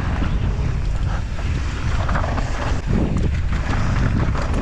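Wind rushing over the microphone of a mountain bike riding down fast, with the irregular rattle and crunch of tyres over rough ground.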